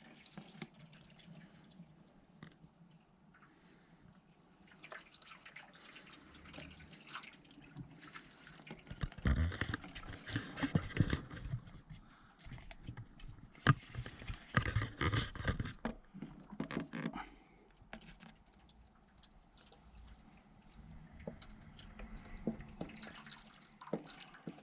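Water poured from a jug into a Viessmann boiler's heat exchanger, splashing and trickling down through the fins in several spells, with a few sharp knocks, to flush out the scale scrubbed loose from the bottom of the exchanger.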